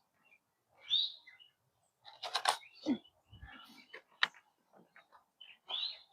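Birds chirping in short calls, about a second in and again near the end, with a brief rustle a little past two seconds, a low knock, and one sharp click from handling the seedlings and their pots.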